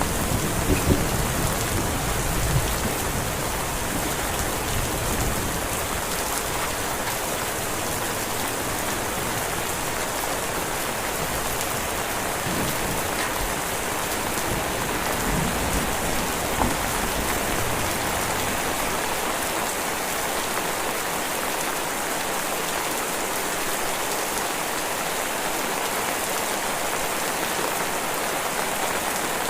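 Heavy rain falling steadily. The tail of a thunder rumble dies away in the first few seconds.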